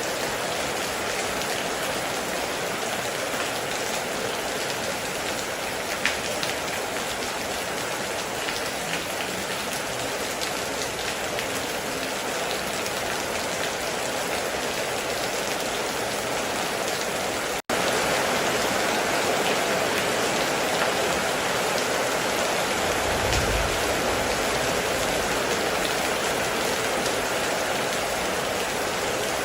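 Heavy rain falling steadily, a dense even hiss with scattered sharper drops. It cuts out for a split second about eighteen seconds in and comes back slightly louder, with a brief low rumble a few seconds later.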